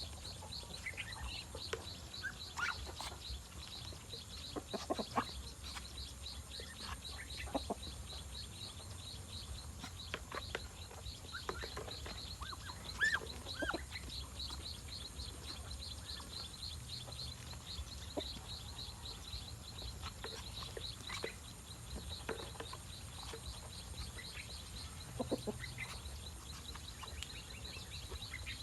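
Farm poultry clucking and calling in scattered short bursts, over a steady, rapid, high-pitched chirping and a low hum.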